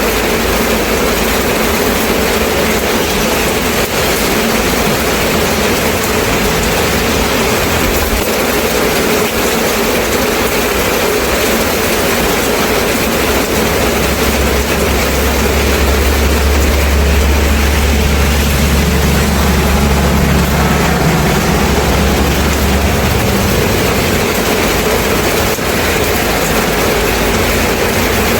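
Steady rain falling, an even hiss. About 13 seconds in a low rumble joins it, holds for roughly ten seconds and then fades.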